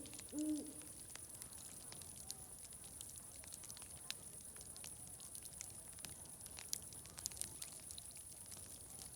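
An owl hooting in the first half-second, then a wood fire crackling faintly with scattered pops over a steady high-pitched hiss.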